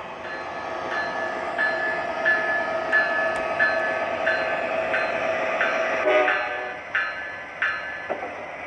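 Onboard sound system of an MTH Proto-Sound 3 model ES44AC diesel locomotive: the diesel engine sound running steadily while the locomotive bell rings about every two-thirds of a second, with a short horn blast about six seconds in.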